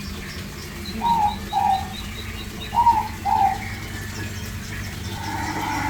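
Recorded forest birdsong from the attraction's soundtrack: four short, clear whistled calls in two pairs, each rising then falling, over a rapid run of faint high chirps. A steady layered tone swells in near the end.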